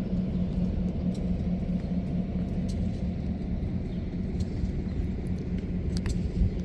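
Steady low rumble of a vehicle engine running, with a few faint clicks.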